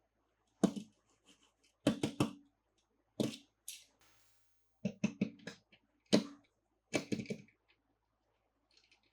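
Sharp clicks and knocks from hard toy pieces and their packaging being handled, in about seven short clusters spaced a second or so apart, with a brief rustle about four seconds in.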